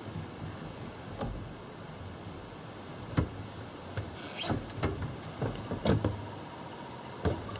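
Scattered clicks and knocks of tools and engine parts being handled during engine work, with a brief scrape midway, over a steady background hiss.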